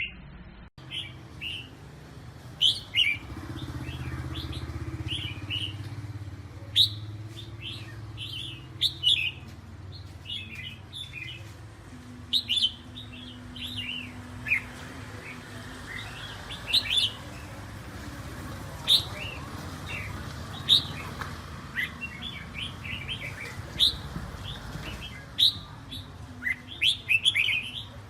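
Red-whiskered bulbuls singing: bright short chirpy phrases repeated over and over, over a low steady rumble in the background.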